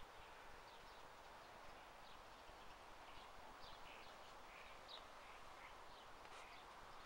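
Near silence: faint outdoor ambience with scattered, faint bird chirps.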